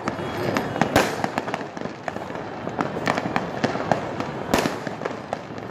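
Fireworks going off in many irregular bangs and crackles, with two louder booms, one about a second in and another near the end.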